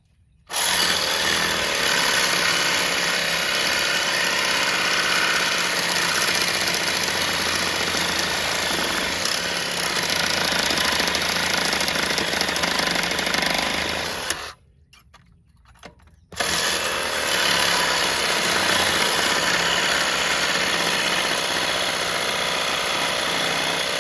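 Reciprocating saw (Sawzall) cutting through a tangled, wire-braided hydraulic hose: two long runs of loud sawing, broken by a pause of about two seconds a little past halfway.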